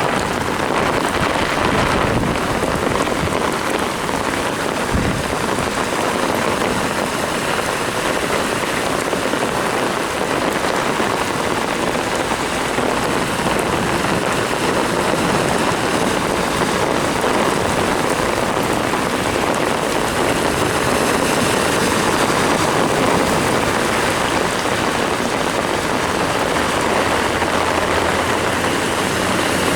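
Torrential rain pouring down steadily. A low vehicle engine hum comes in near the end.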